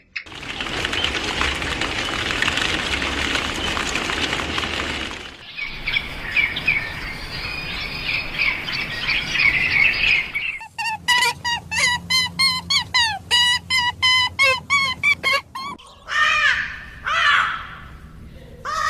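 Birds calling, in several short clips joined together: first a dense chatter of many birds, then high chirping, then a run of sharp repeated calls about four a second, and near the end a few falling chirps.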